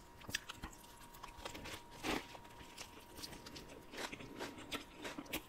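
Close-miked eating of a fried tilapia fish taco: soft, irregular crunches and wet mouth clicks from biting and chewing, the loudest crunch about two seconds in.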